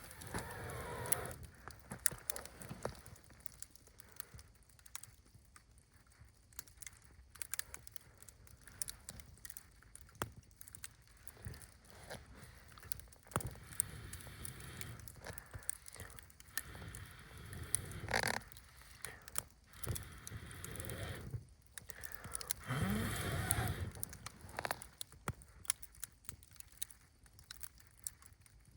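Wood campfire crackling, with scattered sharp pops throughout. A few louder stretches of rustling and handling noise come near the start, about eighteen seconds in, and again around twenty-three seconds in.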